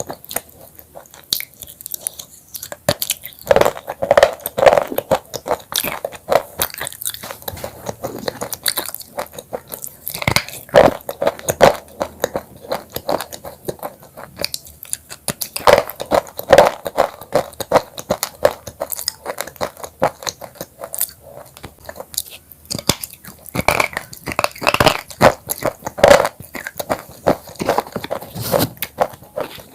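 Close-miked biting and chewing of crunchy broken black chips: several bursts of rapid, sharp crunching with short lulls between them.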